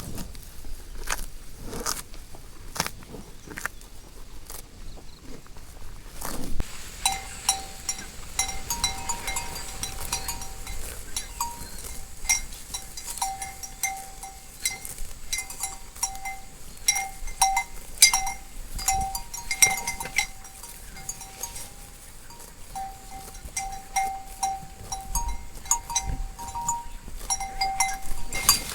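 Cowbells on grazing cattle clanking irregularly, a ringing metallic tone struck again and again from about seven seconds in. Before that, only scattered clicks and knocks.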